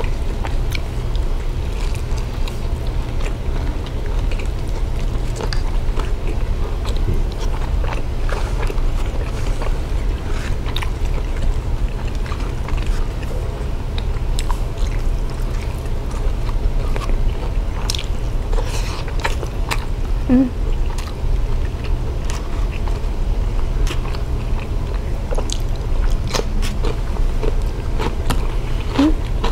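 Close-up eating sounds: biting, chewing and crunching of fried breakfast foods, with scattered wet clicks and smacks, over a steady low hum.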